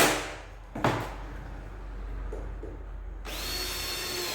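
Power drill driving screws into MDF: a screw run in finishes just after the start, a sharp knock follows about a second in, and the drill runs again with a steady whine from about three seconds in.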